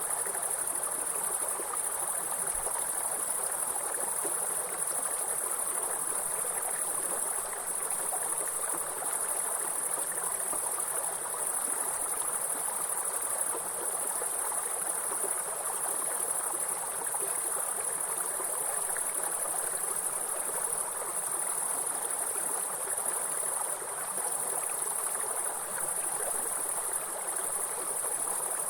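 A steady, high-pitched chorus of insects, broken by brief small dips, over the even rush of a flowing stream.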